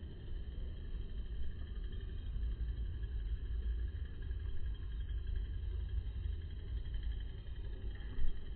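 Steady low outdoor rumble of background noise, with a brief bump a little before the end.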